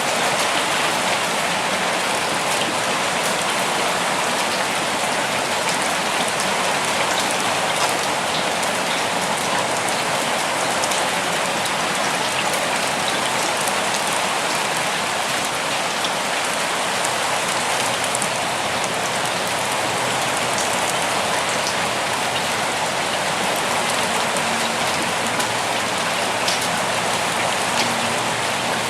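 Steady rain falling in a forest: an even hiss with many separate drop ticks scattered through it.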